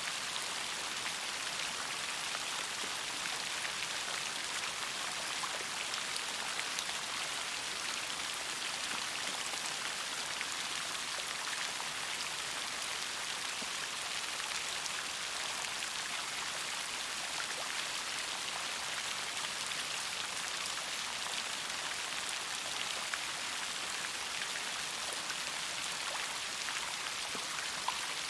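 Steady rain, with many small drops pattering on a surface. It carries on evenly throughout, with a few slightly sharper drop ticks.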